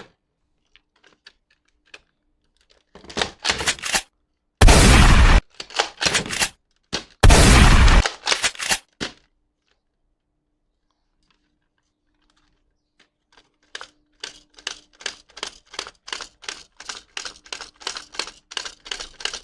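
Toy gun: mechanical clicking, and two loud bursts of gunfire sound of just under a second each, about two and a half seconds apart. After a few seconds of silence comes a fast run of clicks, about three to four a second, near the end.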